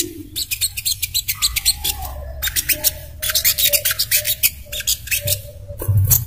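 Sogok ontong (spiderhunter) calling: runs of rapid, sharp, high chipping notes with short breaks between the runs, over a fainter lower repeated note.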